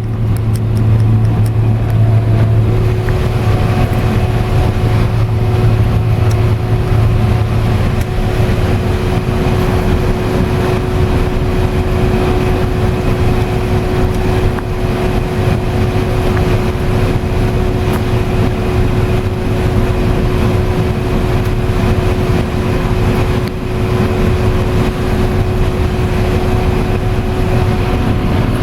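Combine harvester running while harvesting corn, heard from inside the cab: a steady drone of the engine and threshing machinery with a constant whine held throughout.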